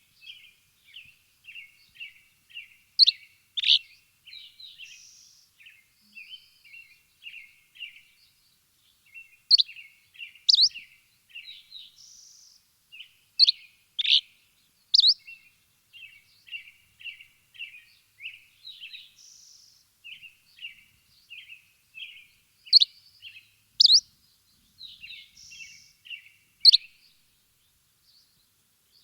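Small songbirds chirping: a steady run of short, quick chirps, with a few louder, sharp notes coming in pairs now and then.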